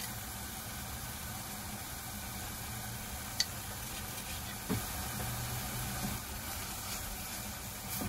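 Diced tomatoes sizzling gently in oil in a pot, over a steady low hum. There is a light click about three and a half seconds in and a soft knock about a second later.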